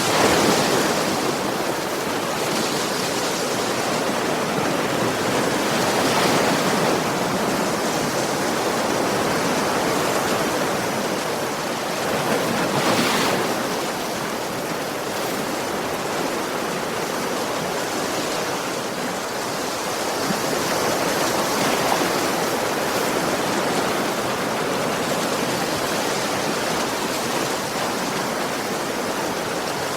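Ocean waves washing onto a shore, a steady rush of surf with a few louder surges every several seconds.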